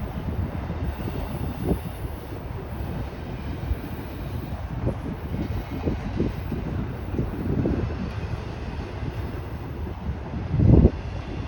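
A passing train rumbling steadily and low, with irregular low knocks and a louder low thump near the end.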